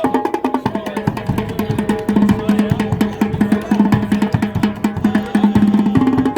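Percussion music: drums struck in a fast, busy rhythm, with a steady low pitched ring under the strikes.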